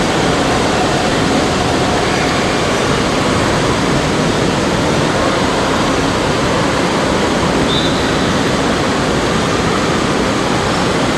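Steady, loud rushing of water, an even unbroken wash of noise.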